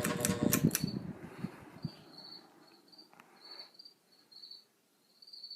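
1989 SMC Laguna KB-36 ceiling fan coasting down after being switched off from high. A few clicks come in the first second, and its whir fades out over about two seconds. Crickets chirp throughout.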